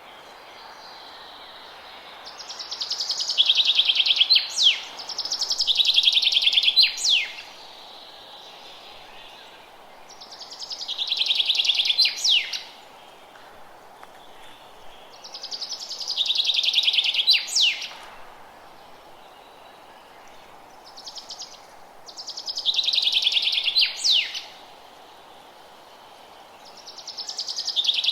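A songbird singing the same song over and over, every five to six seconds: each song is a fast trill of about two seconds that grows louder and ends in a couple of sharp down-slurred notes. A steady soft hiss of background runs underneath.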